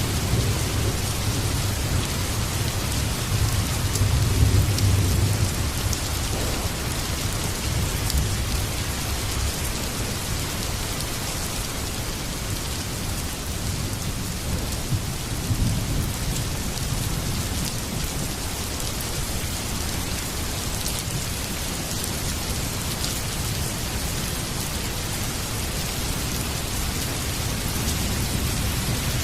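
Heavy rain falling steadily, with rolling thunder rumbling low in the first few seconds and again about halfway through.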